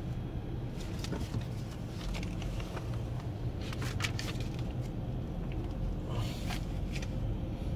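Dodge Grand Caravan's engine idling, a steady low hum heard from inside the cabin, with a few short rustles and clicks, the clearest about four and six and a half seconds in.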